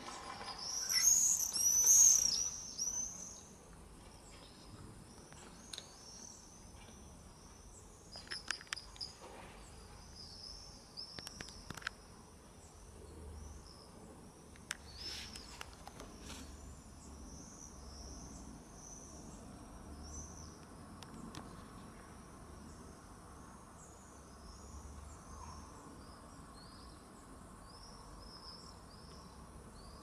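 Shrill, high-pitched calls of a flock of birds in flight, loudest in the first few seconds as they pass close, then fainter calls repeating on and off throughout. A few short clicks sound in the middle.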